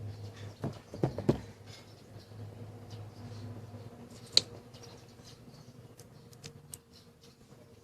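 Small clicks, ticks and scrapes of hand-held parts or tools being handled. There are a few sharper knocks about a second in and one loud click a little past the middle, over a faint steady low hum.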